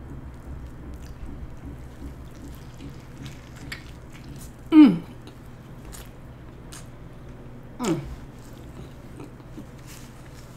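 A person chewing a mouthful of stacked veggie burger close to the microphone, with faint wet mouth clicks. Two short hummed vocal sounds fall in pitch, the louder about five seconds in and a softer one about eight seconds in.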